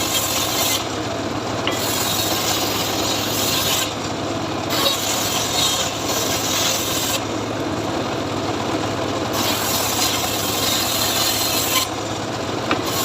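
Homemade engine-driven sawmill saw cutting teak, a steady engine hum under a continuous rasping cut. The high hiss of the cut drops out briefly four times, about a second each.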